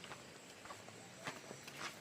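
Quiet footsteps of a person walking at a steady pace, about one step every half second.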